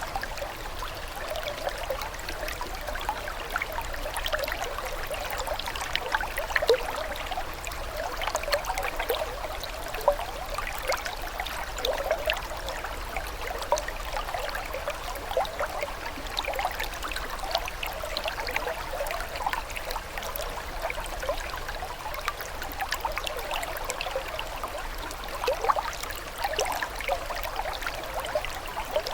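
Water trickling and burbling in a small stream, a steady babble thick with little bubbling splashes.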